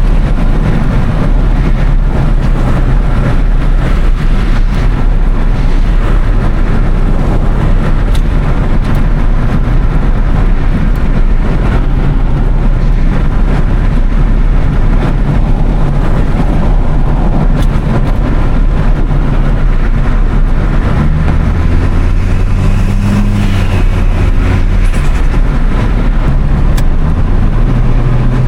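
Toyota Starlet Glanza V's turbocharged four-cylinder engine running on the move, under a loud, steady rush of intake and road noise. The engine note holds steadier in the second half and rises near the end.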